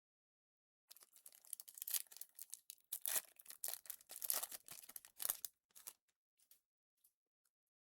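Crinkling and rustling of plastic trading-card packaging being handled, dense crackle lasting about four and a half seconds, followed by a few faint ticks.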